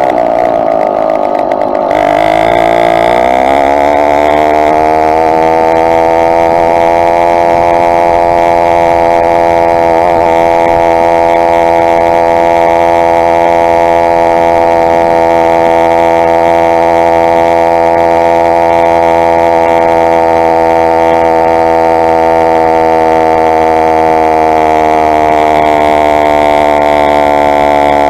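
Small two-stroke engine of a motorized bicycle running under way. Its pitch climbs over the first few seconds as it speeds up, then holds steady and high, easing off slightly near the end.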